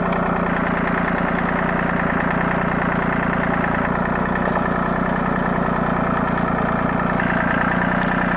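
Tractor engine running steadily while the tractor drives slowly over rough ground.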